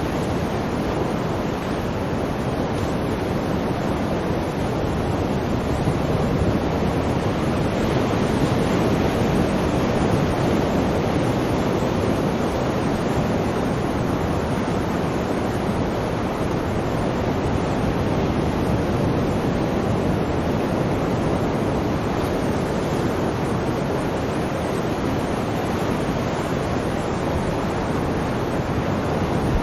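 Sea surf: a steady, unbroken rush of waves with no separate breaks standing out.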